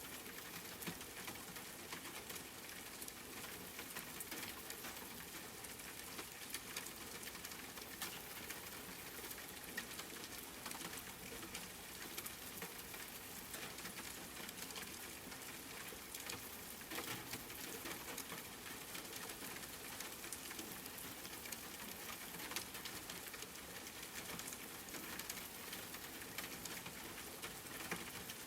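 Steady rain falling, with a dense scatter of sharp individual drop ticks over an even hiss.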